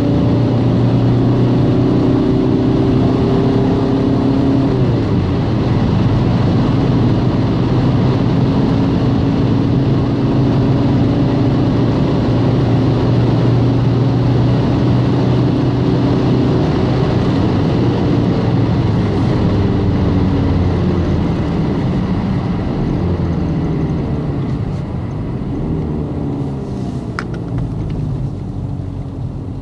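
Audi A3 1.9 TDI four-cylinder turbodiesel heard from inside the cabin, pulling hard under acceleration, with a break in the engine note about four to five seconds in, as at a gear change. From about two-thirds of the way through, the engine note drops and grows quieter as the car eases off.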